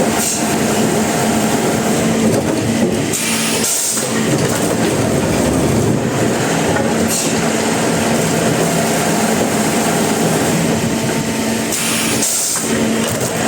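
Sawmill machinery running steadily under load, a saw cutting through timber, with a held low hum and two brief lulls, one about four seconds in and one near the end.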